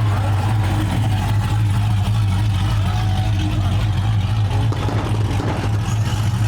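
Car engine idling with a deep, steady drone that holds at one pitch throughout.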